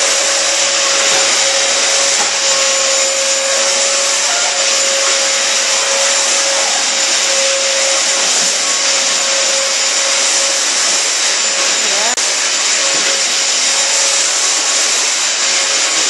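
Vacuum cleaner running steadily: a constant rushing hiss with a steady motor whine.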